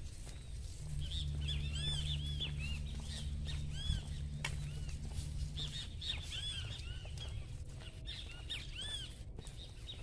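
Small birds chirping over and over in short arched notes. A low steady hum sits under them from about a second in until about six seconds in, and there is one sharp click near the middle.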